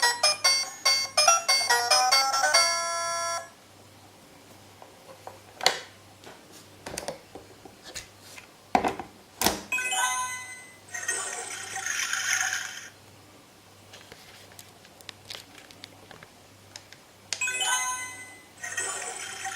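VTech Go Go Smart Friends Busy Sounds Discovery Home toy playing an electronic chime jingle of quick notes, like a doorbell tune, which ends about three seconds in. Then come a few sharp clicks of plastic parts being handled, and more short electronic toy sound effects.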